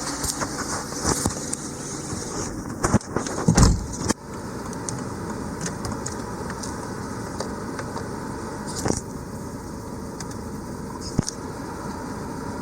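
BMW N43B20 2.0-litre inline-four engine running at a steady idle, with a few loud knocks and thumps about three to four seconds in and scattered clicks later.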